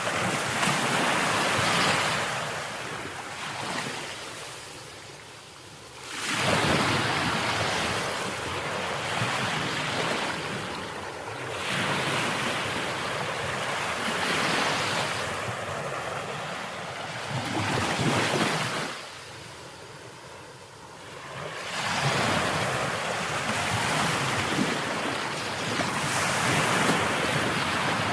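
Ocean waves breaking and washing up the shore in repeated surges, each swelling in a rush of noise and easing off into a quieter lull before the next. Two longer lulls come about a quarter of the way in and again past the middle.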